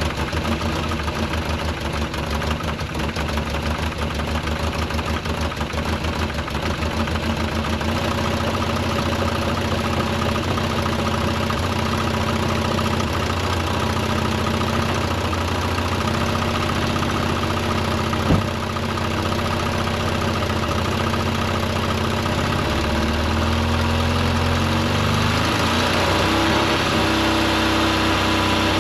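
Classic car's engine idling just after starting, running unevenly for the first several seconds and then settling into a steadier idle. A single sharp click comes about eighteen seconds in, and the engine speed rises near the end.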